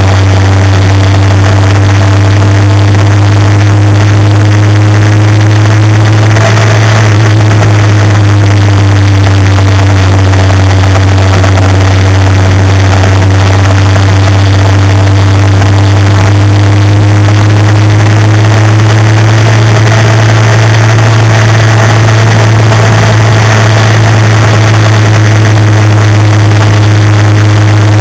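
Motorcycle engine running steadily at cruising speed, its tone drifting slowly up and down with small changes in speed, over a loud, steady rush of wind and road noise at the onboard microphone.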